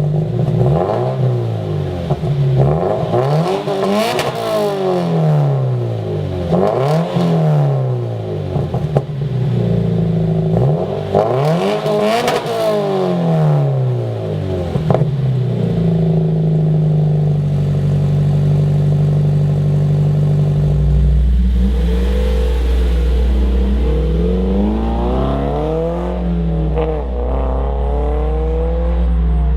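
2013 Scion FR-S's flat-four boxer engine through a Corsa performance exhaust, revved repeatedly, its pitch climbing and falling several times. It holds a steady note for a few seconds, then a deep steady drone joins under more revs near the end.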